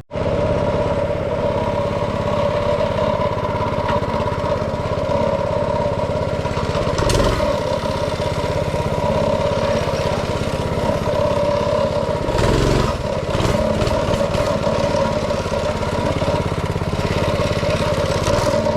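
Small single-cylinder engine of a backyard mini bike or go-kart running steadily, with a few brief surges in the engine note.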